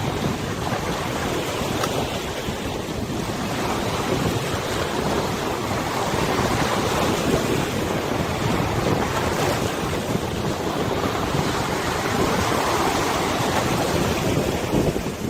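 Wind buffeting the microphone over the wash of waves on a wide river: a steady, even rush with no distinct events.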